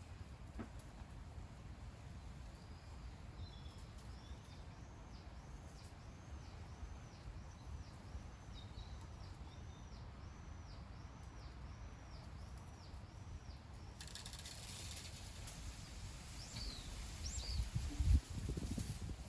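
A bird repeating one high arched note about twice a second for some ten seconds over a low outdoor rumble. Later come a few short high chirps and a low thump near the end.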